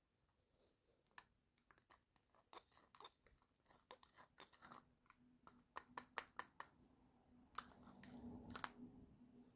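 Small plastic toy pieces and packaging being handled: a run of quiet clicks, taps and crinkles that get busier in the second half. A faint steady low hum comes in about halfway.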